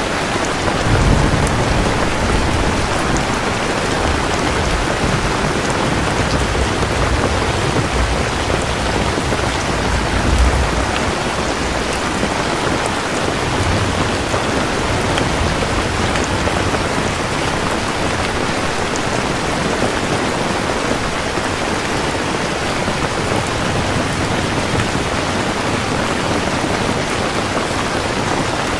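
Steady, heavy rain with low rolls of thunder, the strongest about a second in and around ten seconds in.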